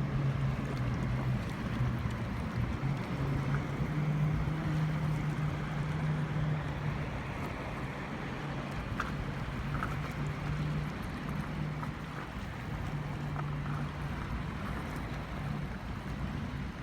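Steady low drone of a motorboat engine across the water, over a wash of water and wind noise.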